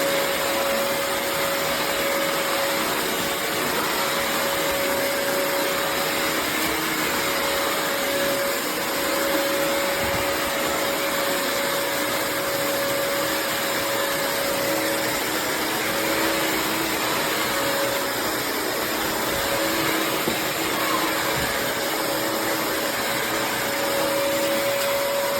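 Bissell CrossWave HydroSteam Pet wet-dry floor cleaner running steadily as it vacuums and mops a floor: an even rushing noise with a steady whine.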